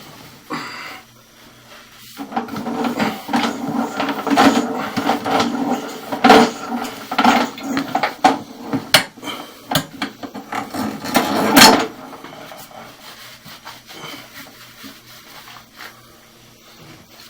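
Irregular knocking and clattering, dense for about the first twelve seconds, then fading to a few faint taps.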